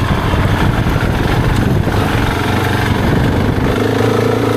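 Husqvarna 701's single-cylinder engine running at low revs while riding, its note becoming steadier and stronger near the end.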